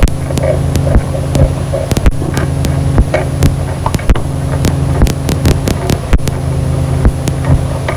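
Ambient noise music: a loud, steady low drone built of several stacked hum tones, overlaid with frequent irregular clicks and crackles.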